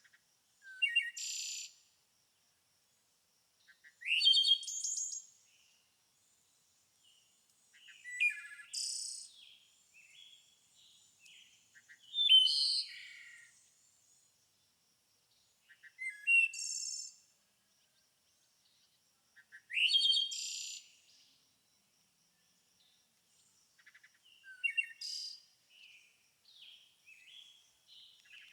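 A songbird singing a short song phrase over and over, about every four seconds, with softer chirps in between.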